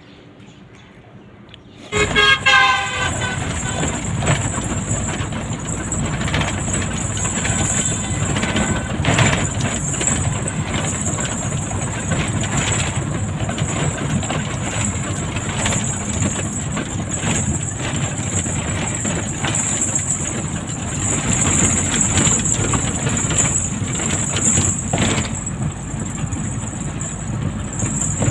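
Road vehicle noise. A horn sounds briefly about two seconds in, then a vehicle runs steadily on the road with constant road and engine noise.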